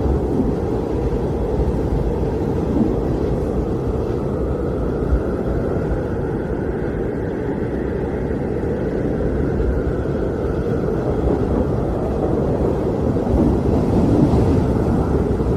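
Blizzard wind blowing steadily: a deep, continuous rushing noise with little high end, swelling slightly near the end.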